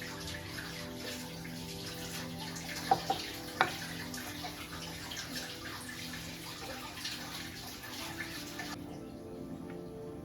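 Water running from a tap, with three sharp clinks about three seconds in; the water shuts off near the end.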